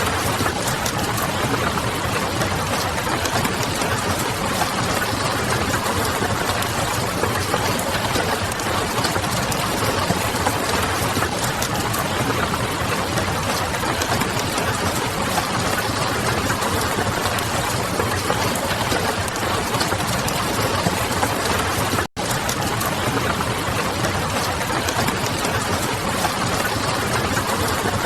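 Steady rain and crackling wood-fire ambience: a dense, even hiss of rain with fine crackles, under a low hum. It cuts out for a split second about three quarters of the way through, then resumes.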